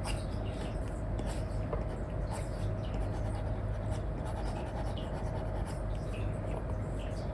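Apple Pencil 2 nib scratching and tapping in short, irregular strokes on an iPad's paper-like screen protector while drawing, over a steady low hum and hiss.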